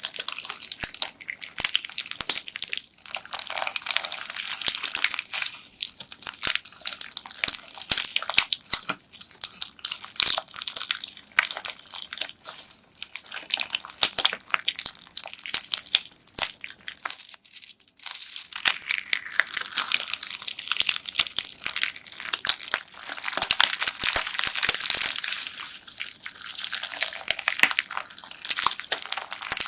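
Bead-filled slime being squeezed, pressed and folded by hand, giving a dense run of crackling and small clicks as the beads rub and knock against each other in the slime. There is a short lull a little past the middle.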